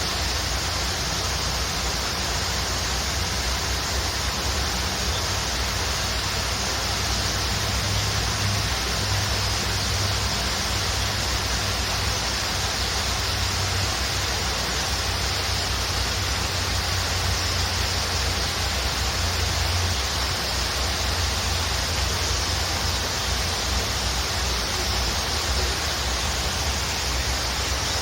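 Waterfall rushing in a steady, unbroken roar of falling water with a deep low rumble.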